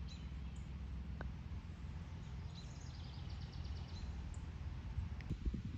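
Songbirds calling over a steady low outdoor rumble: short high chirps near the start and again about four seconds in, and a quick trill of repeated notes in the middle.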